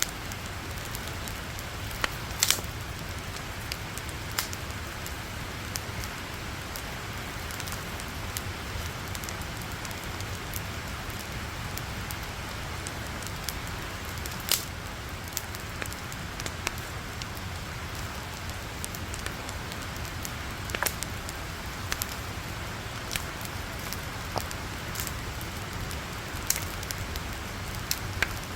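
Wood campfire burning in a fire pit: a steady hiss with irregular sharp crackles and pops, a few of them louder, near the start, about halfway and about two-thirds of the way in.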